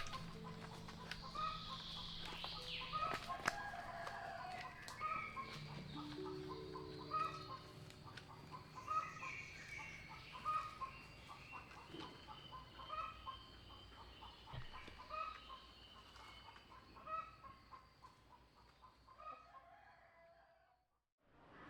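Chickens clucking and calling, a short call repeating about once a second with other fowl calls over it; fades out near the end.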